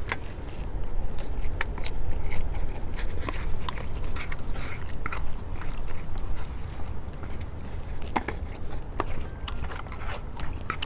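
Close-up chewing and biting of food, with many short wet mouth clicks scattered throughout.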